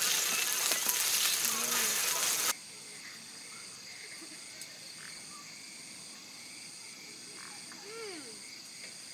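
A loud, even hiss cuts off abruptly about two and a half seconds in. Then comes a steady chorus of insects chirping in a high, pulsing drone, with faint voices now and then.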